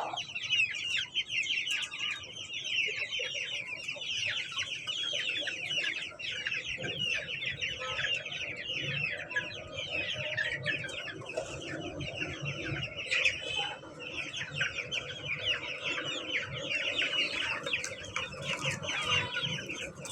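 Many young chicks peeping without pause, a dense chorus of short, falling high-pitched cheeps overlapping one another.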